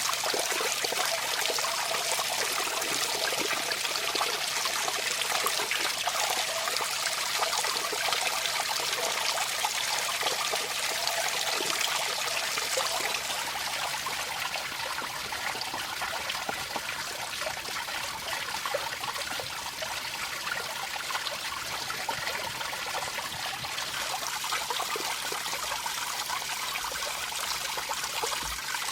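Stream water trickling and running steadily over stones.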